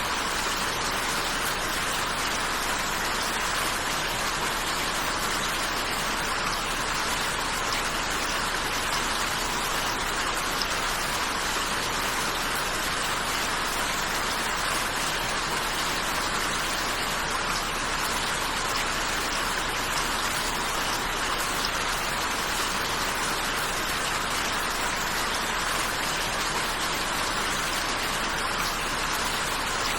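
Steady rain falling, an even hiss of drops at a constant level.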